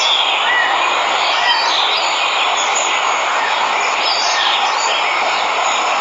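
Steady rushing of a waterfall, with birds chirping and whistling briefly over it.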